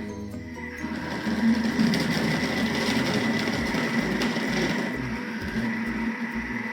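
Electric mixer beating butter, starting up about a second in and then running steadily with a faint whine.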